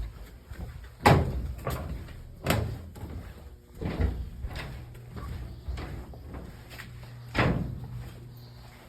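A series of heavy knocks and bangs, several over a few seconds, each dying away quickly, the loudest about a second in and another near the end, with a steady low hum from about halfway through.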